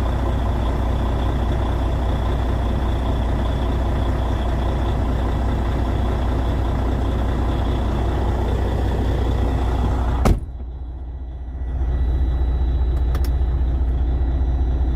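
Semi truck's diesel engine idling with a steady low rumble. A sharp knock comes about ten seconds in. After it the hiss drops away and the sound turns muffled, as from inside the cab.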